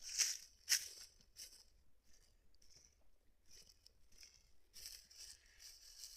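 Dry rustling and crunching noises in short, irregular bursts, the loudest two in the first second.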